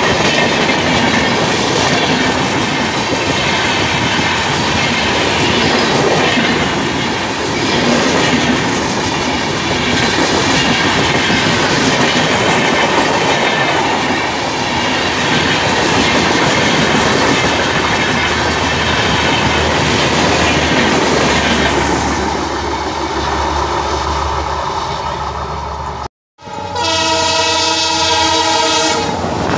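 Passenger coaches passing close at speed, wheels clattering over the rail joints in a continuous rushing roar. Near the end an EMD WDP4 diesel locomotive sounds its horn in one long, steady chord as it approaches.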